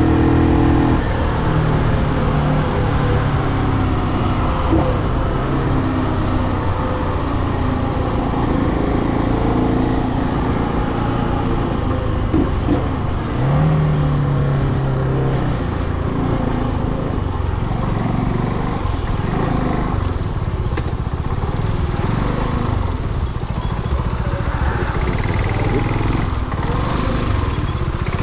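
Brixton Cromwell 250's single-cylinder air-cooled engine running on the move, its pitch stepping up and down with throttle and gear changes, with a short rise in pitch about halfway through. In the last third it settles lower and rougher, as if slowing or rolling off the throttle.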